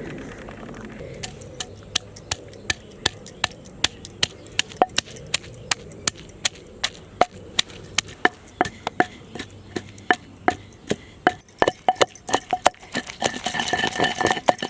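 A kitchen tool striking food on a hard surface again and again, about two to three sharp knocks a second, each with a short ring. A brief clinking rattle comes near the end.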